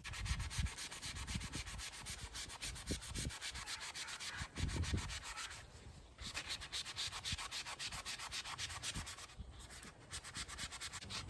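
Sandpaper worked by hand over a primed 3D-printed plastic part: rapid back-and-forth rasping strokes, pausing briefly about halfway through and again near the end, as the primer coat is touched up by hand.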